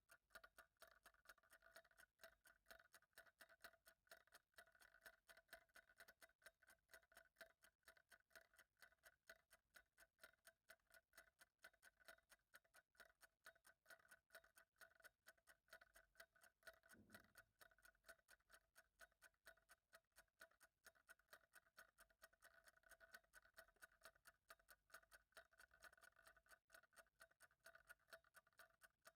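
Faint ticking clock, ticking steadily several times a second, with a soft low thud about halfway through.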